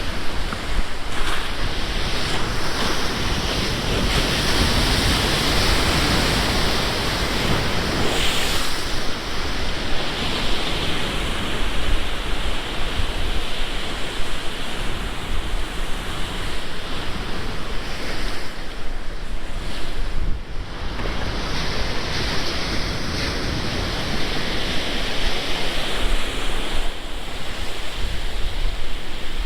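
Rough storm surf breaking and washing against a seawall, rising and easing in repeated surges, with strong wind rumbling on the microphone.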